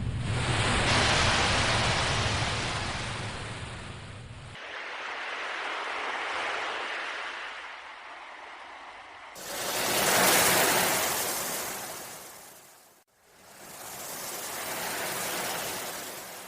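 Ocean waves washing in and drawing back in about four swells, each rising and then fading, with sudden changes in tone between them where separate wave recordings are joined.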